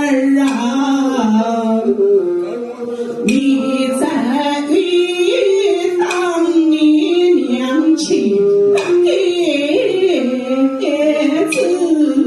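Huaiju opera music: a wavering melody with sliding, sustained notes, marked by a few sharp clicks.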